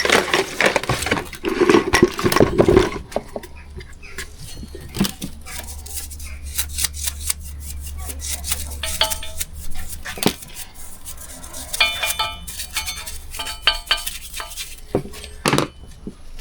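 Metal engine parts and hand tools clinking and knocking against each other on a workbench, with many sharp clicks and a few short metallic rings partway through, while the crankshaft journals are worked over by hand.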